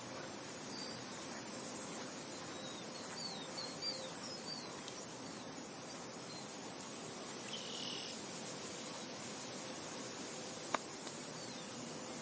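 Steady wind noise, an even rushing hiss, with faint high chirps scattered through it and one sharp click about ten and a half seconds in.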